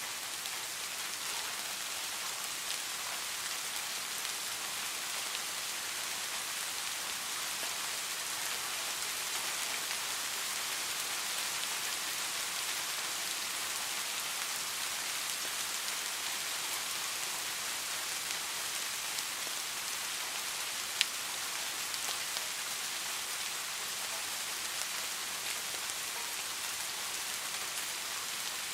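Steady rain falling, an even hiss of many drops, with one sharp louder tick of a single drop about two-thirds of the way through.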